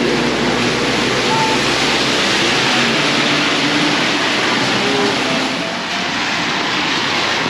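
Torrential rain pouring down: a loud, steady hiss and roar of rain.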